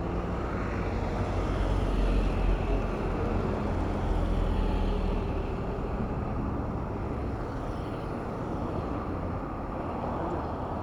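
Road traffic heard while cycling: a steady low rumble of vehicles and moving air that is loudest in the first half and eases off later.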